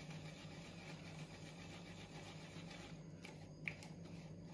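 Quiet room tone with a steady low hum and a couple of faint clicks near the end.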